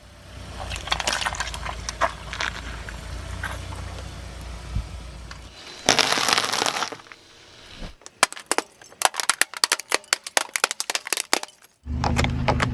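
Car tyres crushing objects: crackling and crunching over a low rumble, a loud rush of noise around six seconds in, then a rapid run of sharp cracks. A loud low steady hum starts near the end.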